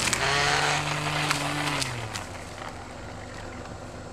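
Chainsaw engine revving up and holding at speed for about two seconds, then dropping back to a lower, quieter run, with a few sharp clicks over it.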